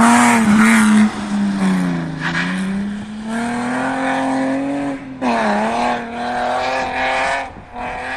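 Rally car engine revving hard, loudest at first, dropping in pitch as it slows and then climbing again as it accelerates. About five seconds in the pitch drops briefly before rising once more, and the sound fades near the end.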